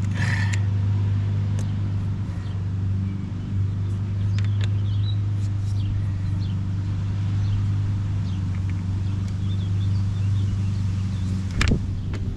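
Steady low mechanical hum, with scattered light clicks of hand tools on metal and one sharp knock near the end.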